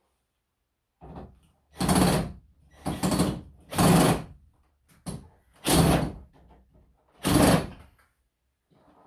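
Five short bursts of hissing spray, each about half a second, from a trigger sprayer washing an LG wall-mounted air conditioner, with a faint low hum under each burst.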